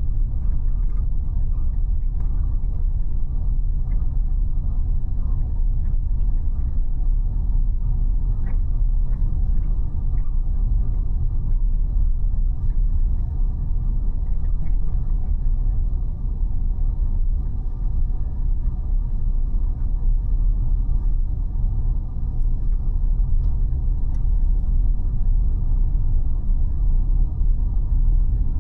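Steady low rumble of a car being driven, made up of road and engine noise, with faint ticks and clicks over it.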